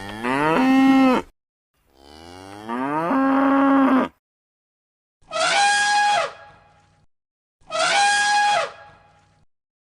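Cow mooing: two long moos that rise in pitch and then hold steady, followed by two shorter, higher-pitched calls.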